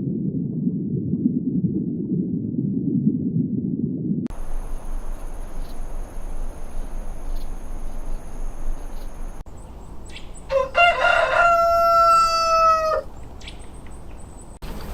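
A rooster crowing once, about two and a half seconds long: a short rising start, then a long held note, the loudest sound here. Before it come a low rumbling noise and then a steady hiss with a high whine.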